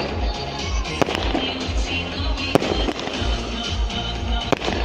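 Festive fireworks going off, with sharp bangs about a second and a half apart, over music with a steady bass.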